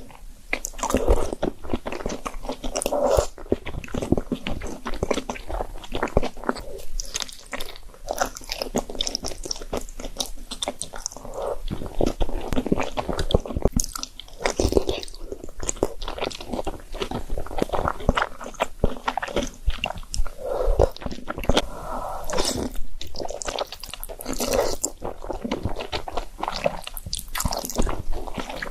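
Close-miked eating sounds: wet slurping and chewing of noodles and dumplings, with many irregular clicks and smacks.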